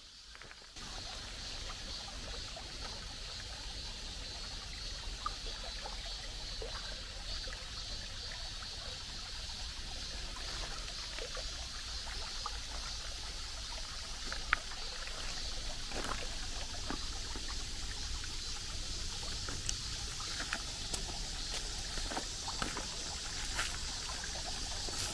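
Creek water running over rocks, a steady rushing trickle that comes in about a second in, with scattered small clicks.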